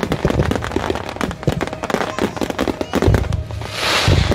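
Fireworks display at close range: dense, rapid crackling from bursting stars. About three seconds in come deep thumps and rushes of hiss as a fan of comets shoots up from the ground.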